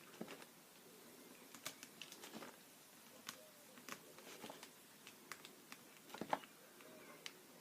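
Faint, irregular small clicks and taps of a paint marker pen working on paper, the loudest tap a little after six seconds in.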